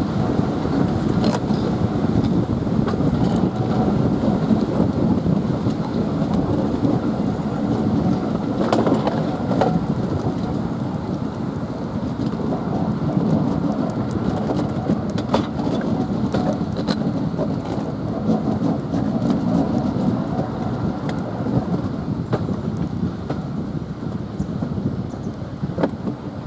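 Steady rumble inside a moving train's cab: the locomotive running and its wheels rolling on the rails, with a few faint sharp clicks now and then.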